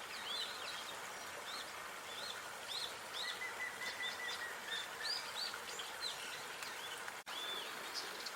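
Small songbirds chirping in quick, repeated short calls, with a brief rapid trill partway through, over a steady outdoor background hiss. The whole sound drops out for an instant about seven seconds in.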